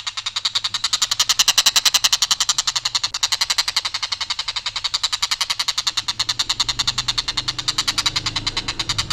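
Stork-billed kingfisher giving a long, harsh, rapid chatter of about ten notes a second, unbroken. A faint low hum joins in over the last few seconds.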